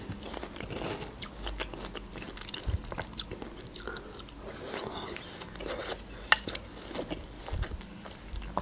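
Close-miked biting and chewing of juicy melon cubes: wet, crunchy chewing with irregular small clicks.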